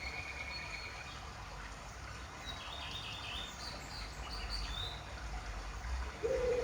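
Faint birds chirping in the background, short high calls and trills, then a lower cooing call starting near the end.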